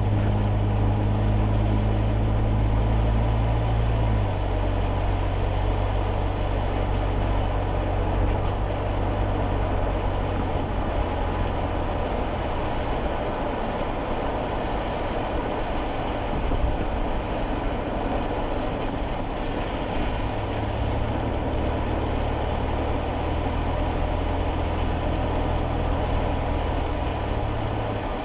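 Cabin sound of a kei car driving on wet roads: a steady low drone from its small 660 cc engine under a constant hiss of tyre and road noise. The engine hum is strongest for the first few seconds, fades, then comes back clearly in the last third.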